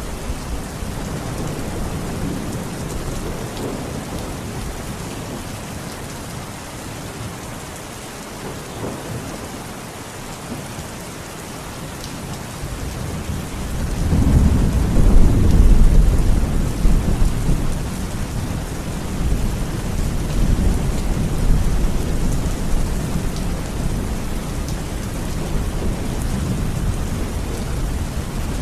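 Steady rain falling, with a low rumble of thunder that swells in about halfway through, peaks briefly and keeps rolling.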